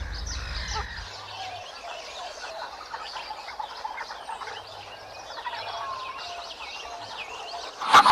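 Many birds chirping and calling together, a dense chorus of short overlapping chirps and whistles. A much louder sound cuts in at the very end.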